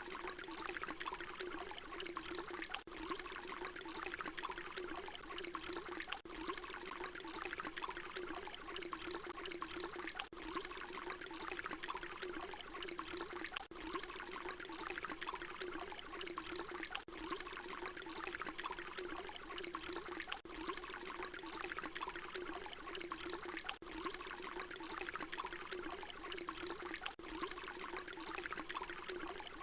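Water pouring in a steady stream, an even splashing rush with brief dips every three to four seconds where a short recording loops.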